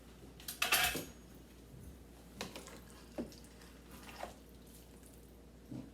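Kitchenware clattering as food is packed into containers: a quick cluster of clinks and knocks about a second in, then a few lighter knocks.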